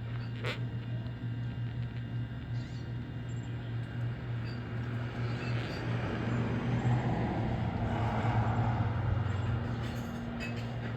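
Wind blowing steadily and swelling into a stronger gust midway, over a constant low hum.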